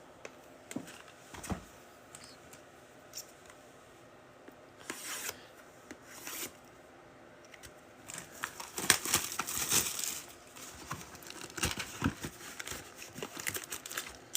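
Trading-card packaging being torn open and handled: scattered light clicks and rustles at first, then from about eight seconds in a denser stretch of tearing and crinkling of plastic wrap and foil packs.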